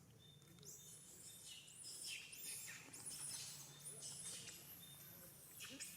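Small birds chirping: many quick, high chirps overlapping, starting about half a second in and growing busier.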